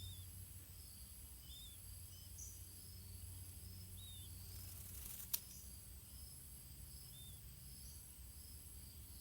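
Faint outdoor ambience: short, arching bird chirps repeating every second or two over a steady high insect drone, with one sharp click about five seconds in.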